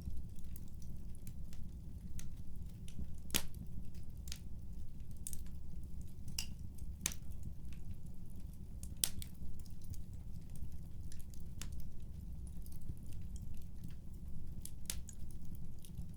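Wood fire crackling, with sharp snaps at irregular intervals over a low steady rumble.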